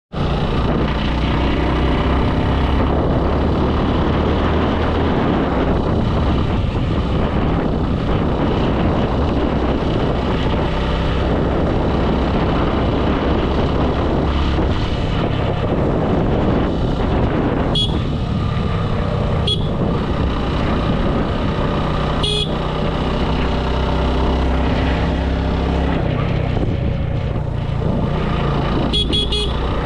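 Motorcycle riding along a road, its engine running under steady wind and road noise, with the engine note shifting every few seconds. Several short horn toots sound in the second half.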